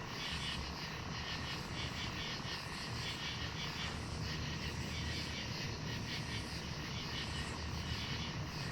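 Steady chorus of night insects, a rapid pulsing chirr, over a low steady rumble.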